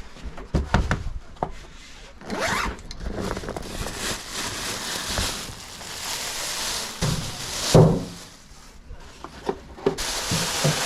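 Irregular handling noise: short rubbing and scraping strokes of gear being handled, the loudest about three quarters of the way through. A steady hiss sets in shortly before the end.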